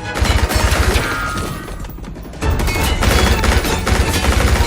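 Sustained rapid automatic gunfire over a film score, in two stretches: about the first second, then again from about two and a half seconds in.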